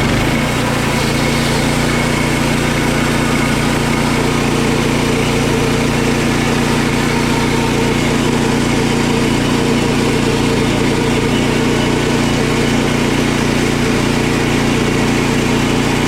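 Portable band sawmill running steadily under load, its small engine holding a constant pitch as the blade cuts lengthwise through a pine log.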